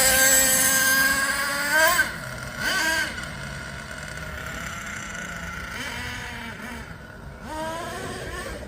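Small nitro engine of a Thunder Tiger MTA4 S28 RC monster truck running at high revs, its pitch rising sharply about two seconds in; then it runs quieter, with another rise in revs near the end.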